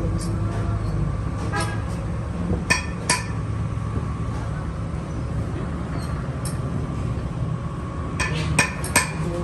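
Sharp metallic clinks of steel tools and parts striking, about eight scattered through, with several close together near the end, over a steady low mechanical hum.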